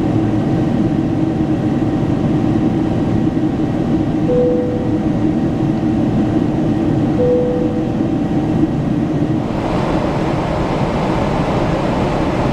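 Steady jet airliner cabin noise from a Boeing 777-300ER: a constant rush with a low hum, and two short beeps about three seconds apart. About nine and a half seconds in, the rush turns brighter and hissier.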